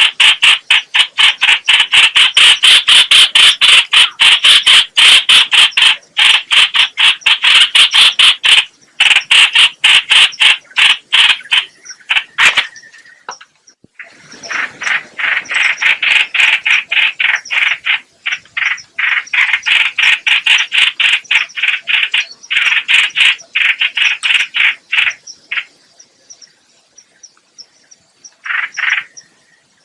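Trao trảo (chao chảo) bird, a laughingthrush, calling as a loud, rapid chattering chorus in long runs. The calls break off briefly about halfway through, thin out near the end, then come back in one short burst.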